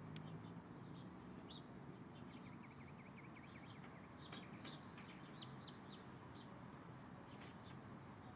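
Faint small-bird calls: scattered short high chirps, with a quick run of repeated notes about two to four seconds in, over low background noise.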